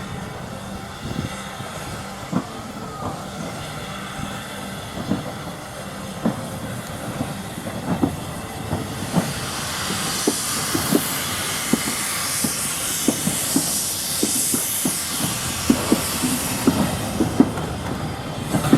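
Steam train running past, its wheels clicking over the rail joints more and more often, with a hiss of steam swelling from about halfway through as it gets louder.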